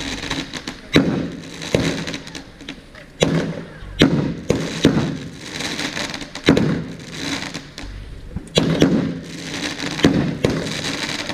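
Fireworks going off: a string of sharp bangs at irregular intervals, about one every second or two, each followed by a low rumbling tail.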